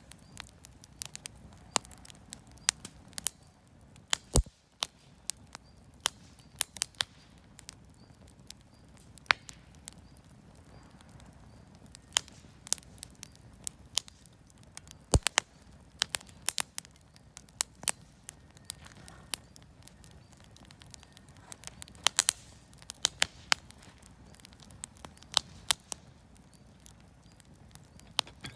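Campfire of scrap lumber offcuts and firewood crackling, with irregular sharp pops and snaps, a few of them loud, over a low steady background.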